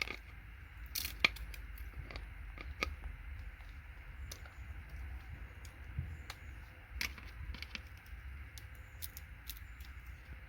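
Scattered light clicks and taps of hand tools and small components on scrap circuit boards being picked apart by hand, with a sharper click about a second in, over a steady low rumble.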